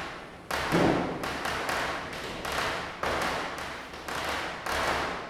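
Diwali firecrackers going off one after another, about two bangs a second, each trailing off in an echo; the loudest bang comes about half a second in.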